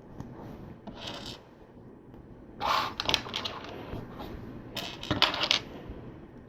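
Small plastic LEGO pieces clicking and clattering as they are handled and pressed together, in three short flurries, the loudest about three seconds in.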